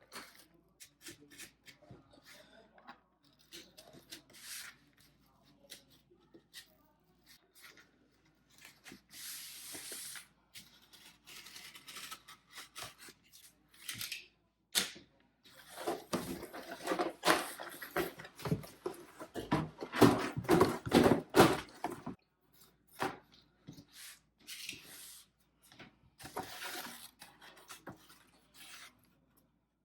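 Cardboard being cut and handled: scattered snips, scrapes and tearing of a pizza box, with a denser, louder run of rapid scraping strokes around the middle.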